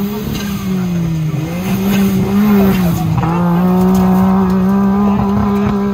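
Suzuki Jimny trial car's engine revving hard as it climbs a dirt slope at full throttle, its pitch rising and dipping at first, then held steady at high revs from about three seconds in, with the wheels spinning in loose dirt.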